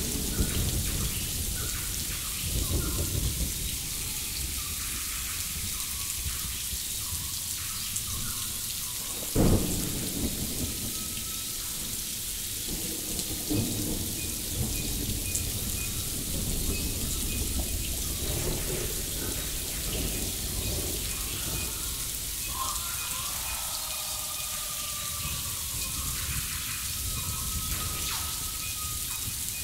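Steady rain-like rushing noise over a low rumble. One heavy thump about nine and a half seconds in. Faint thin tones and short pitch glides come and go in the second half.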